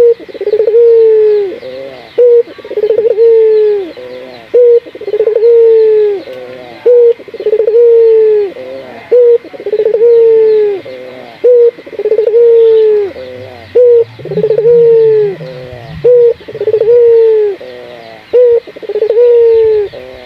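A puter dove (collared dove) cooing over and over, in full song. Each long coo falls in pitch and is followed by a short clipped note, repeating about once a second.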